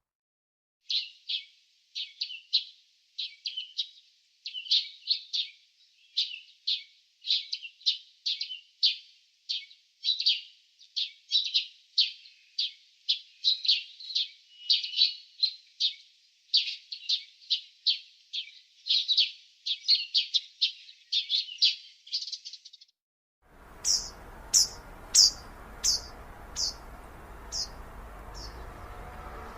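Small birds chirping rapidly, several chirps a second, with nothing else behind them. About 23 seconds in it switches to an outdoor background hiss, with a run of about eight higher, evenly spaced chirps that grow fainter.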